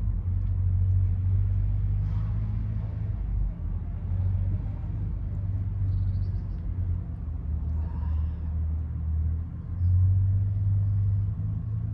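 A low, steady rumble whose loudness wavers.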